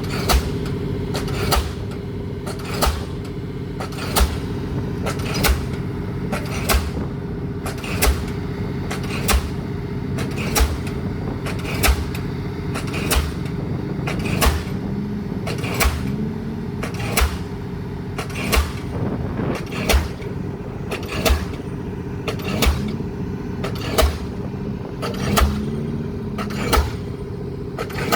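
Diesel pile hammer driving a pile, striking about once every 1.3 seconds with sharp, even blows, over the steady hum of the rig's engine.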